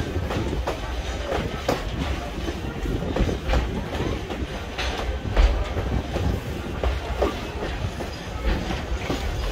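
Railroad cars rolling on jointed track: a steady low rumble with irregular clicks and knocks from the wheels.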